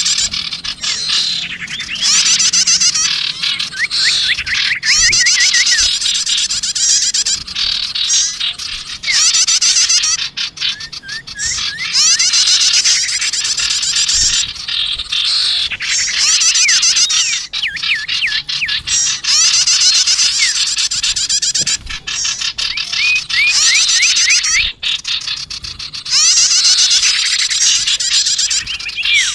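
Bird-lure recording of small songbirds, sirtu and prenjak (prinias), calling noisily. Dense, fast, high chirps and trills come in repeated bursts a second or two long, with short gaps between them.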